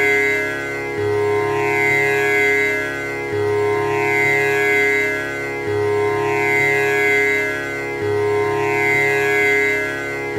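Tanpura drone: its strings plucked in an unbroken repeating cycle, with a low note coming back about every two and a third seconds over a steady ringing sustain.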